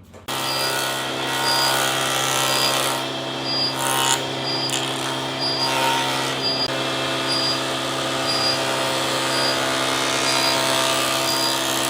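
Electric woodworking power tool running steadily at constant speed, with a faint high tick repeating about every two-thirds of a second.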